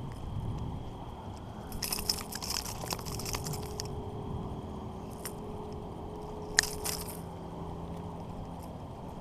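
Handling noise close to the microphone: a burst of rattling clicks and crackles about two seconds in, then one sharp click near the middle, over a faint low steady hum.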